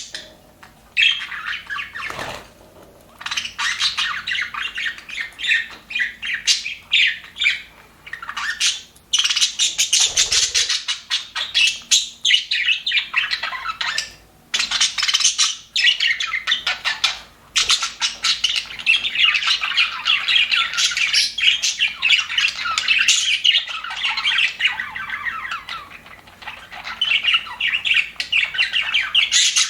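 Budgerigars chattering and warbling, a rapid run of chirps and squawks that goes on almost without a break, with only a few short pauses.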